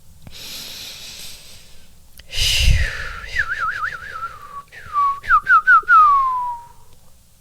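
A person draws a deep breath and breathes out hard into the microphone, then whistles. The whistle starts as a quick wavering trill, then comes as a few short falling whistles, and ends in one long whistle falling in pitch.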